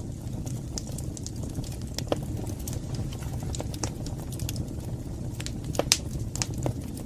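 Wood fire burning in a fireplace: a steady low rumble of flames with scattered crackles and pops, the sharpest about six seconds in.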